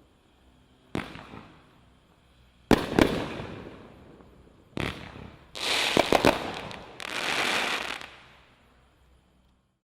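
Brothers Pyrotechnics Striker Serpant 200 gram consumer fireworks cake firing its last shots. First come single sharp bangs a second or two apart, then about three seconds of dense hissing crackle with several sharp pops. The sound dies away near the end as the cake finishes.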